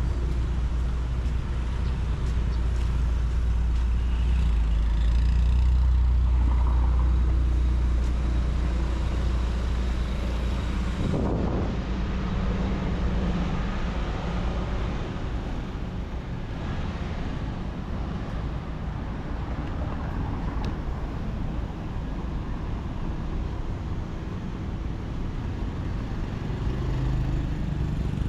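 Outdoor street ambience dominated by a steady low rumble of road traffic. The background changes abruptly about eleven seconds in.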